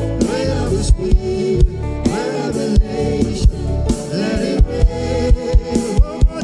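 Gospel worship band playing with a steady drum beat, sustained keyboard chords and some singing.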